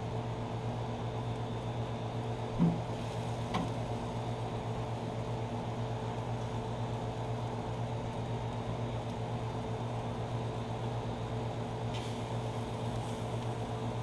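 A steady machine hum with a low drone, and two light knocks about two and a half and three and a half seconds in.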